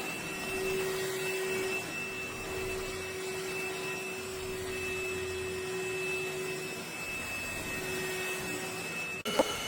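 Trucozie cordless stick vacuum running steadily with a whining hum. It cuts off suddenly just before the end, followed by a brief clatter.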